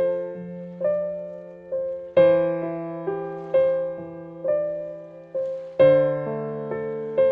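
Slow, gentle solo piano music: single notes and chords struck every half second to a second, each ringing and fading, with fuller chords about two seconds in and again near six seconds.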